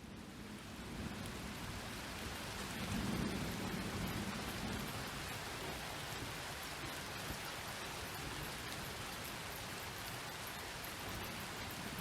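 Steady rain pattering, with a low rumble of thunder swelling and fading about three to five seconds in.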